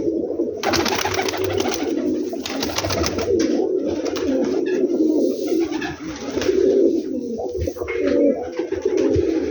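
Domestic pigeons cooing steadily, several birds overlapping, with noisy bursts of rustling during the first few seconds.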